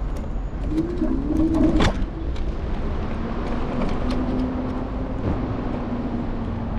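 Riding noise of an electric scooter heard from its handlebars: a low rumble of wind and road vibration with small rattles, and a sharp clack a little under two seconds in. A whine rises about a second in and then holds steady.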